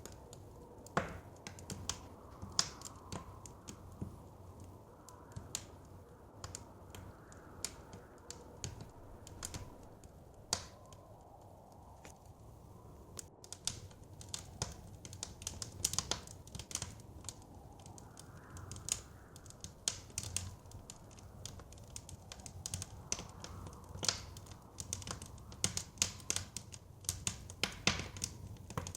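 Wood fire crackling in a fireplace, with irregular sharp pops that come more thickly in the second half. Underneath runs a low steady rush of blizzard wind that swells softly now and then.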